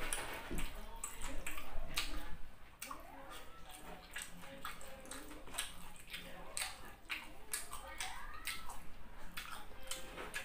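Close-up wet chewing and lip-smacking from a person eating beef patty and rice by hand, with many short sharp mouth clicks.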